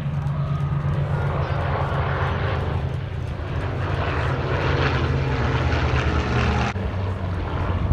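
Supermarine Spitfire's Merlin V12 piston engine and propeller drone in flight. The note is steady and low, and a higher rush builds toward the middle; that upper rush drops away suddenly near the end.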